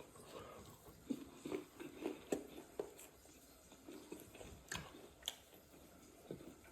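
Faint close-up chewing of fried fish and rice: soft, irregular mouth clicks and wet chewing noises.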